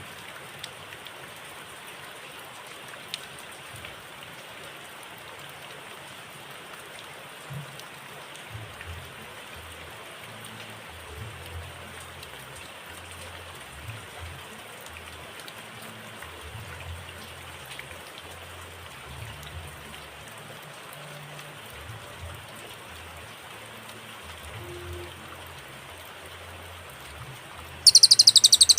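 A long pause in a cililin's song, filled only by a steady faint hiss with low rumbles, then near the end the cililin bursts into a loud, very fast, high-pitched trill.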